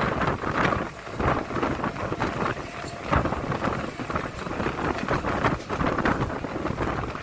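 Mumbai AC local electric train running through the station at speed without stopping: a loud, uneven rush of train noise with many short knocks. Heavy wind buffets the microphone.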